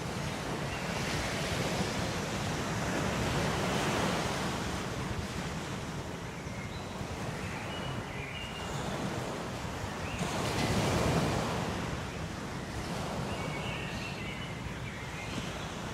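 Ocean waves washing onto a shore, the surf swelling and ebbing, loudest about four and eleven seconds in.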